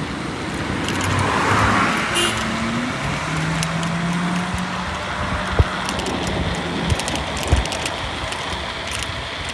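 Road traffic going by, with a vehicle swelling past in the first couple of seconds and a steady engine hum for a few seconds in the middle, over scattered light rattling clicks.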